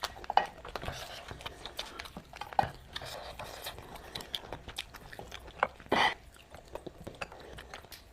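Close-up eating sounds: chewing with many small clicks and clinks of utensils or a plate, and a few louder knocks, one near the start, one about two and a half seconds in and one about six seconds in.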